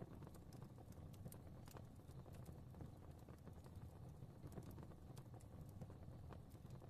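Quiet wood fire crackling: scattered sharp pops and snaps, several a second, over a low steady rumble of burning.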